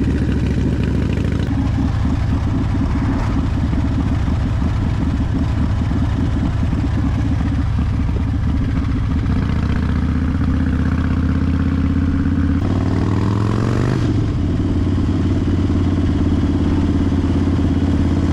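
Harley-Davidson Fat Bob V-twin motorcycle engine running while riding. The note shifts a couple of times and rises in pitch about thirteen seconds in.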